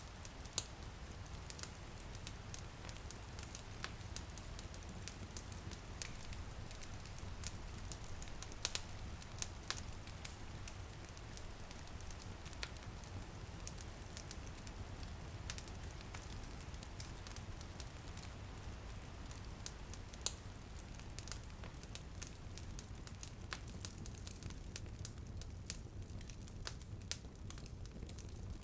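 Wood fire crackling in a fireplace, with frequent irregular sharp pops and snaps over a steady low rumble. Light drizzle patters on a window behind it.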